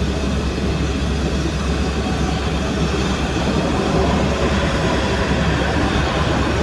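Steady, loud jet engine noise of an airliner on the airport ramp, a constant rumble and rush with no change in pitch.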